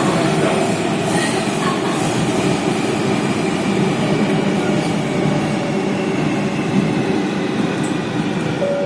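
Athens metro train running between stations, heard from inside the carriage: steady rumble and wheel-on-rail noise.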